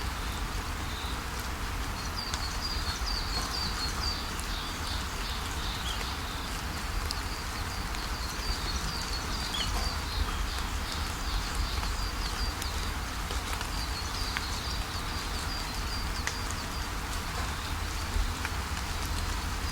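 Steady rainfall with scattered drop ticks, and a bird singing runs of short high chirps over it, starting about two seconds in and returning later.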